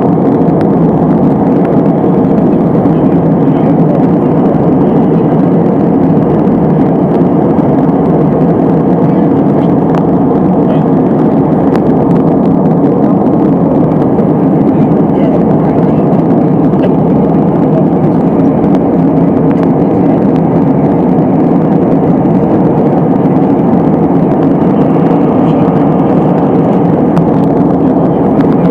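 Steady engine and airflow noise inside the cabin of an Airbus A320 in flight, an even roar with no change in level.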